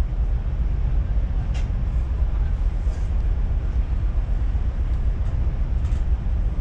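Train in motion heard from inside a passenger car: a steady, low running rumble of wheels on rails, with a couple of faint brief high ticks, one about a second and a half in.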